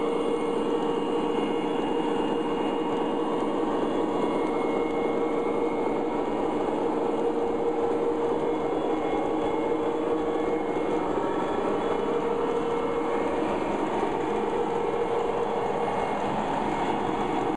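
O scale model diesel locomotives running steadily along the track with a string of tank cars: an even rumble from the running gear and the locomotive's onboard diesel sound, with a steady hum through it.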